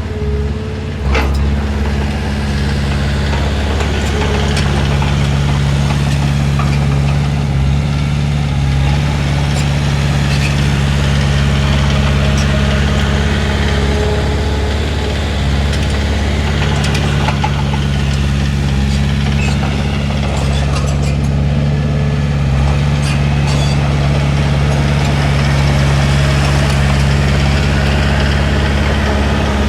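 Diesel engine of a Komatsu D31P bulldozer running steadily with a deep hum, with a few faint clanks.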